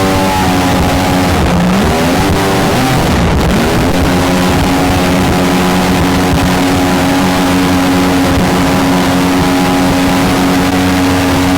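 Mini jet boat's engine running at speed; its pitch dips and climbs back about two seconds in, then holds steady over a constant rush of wind and water noise.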